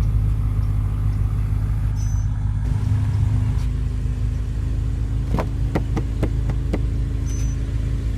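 BMW M5 F10's twin-turbo V8 idling steadily, with a slight change in its hum a few seconds in. About five short clicks come close together near the middle.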